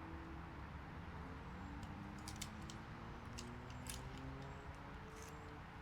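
Faint, irregular light clicks and taps, like small parts and tools being handled, over a steady low hum.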